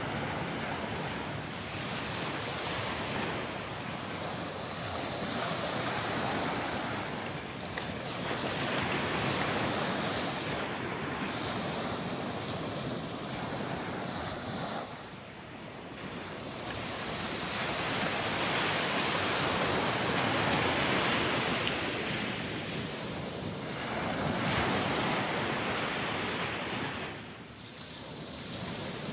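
Surf breaking on a beach, the wash swelling and falling away every few seconds, with wind buffeting the microphone.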